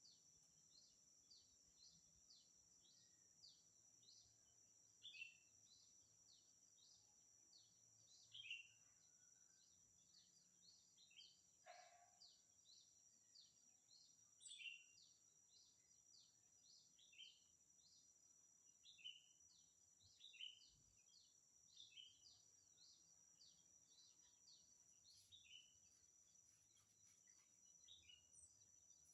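Faint outdoor ambience: small birds chirping, with short falling chirps repeating about twice a second and a few louder chirps now and then, over a steady high-pitched hum.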